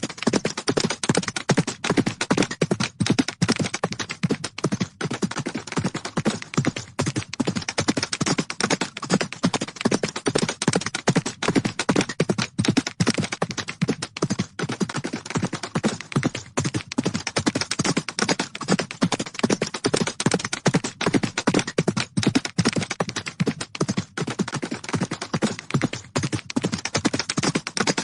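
Horses galloping: a continuous, rapid run of hoofbeats, many strikes a second, without a pause.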